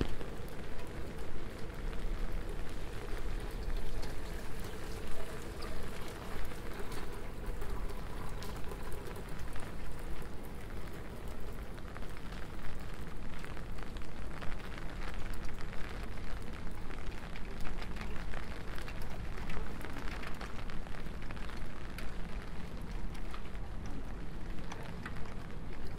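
Steady rain falling on a city street, with many separate raindrops ticking close by over a constant hiss.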